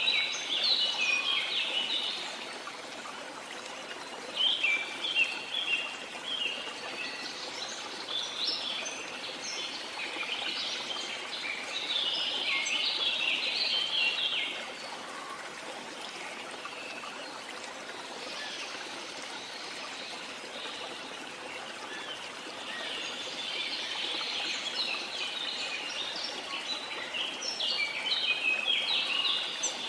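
Birds singing in rapid, choppy phrases over a steady rush of flowing water. The birdsong comes in spells: at the start, through the first half, then again in the last few seconds, with a quieter stretch of just water in between.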